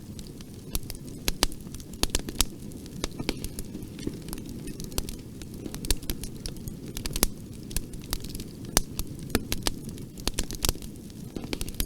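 Bonfire crackling, with irregular sharp pops and snaps from the burning wood, several a second, over a steady low rumble of the flames.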